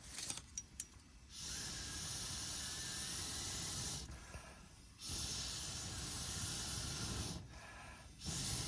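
Steady hissing noise that comes in stretches of two to three seconds, each starting and stopping abruptly, with quieter gaps between.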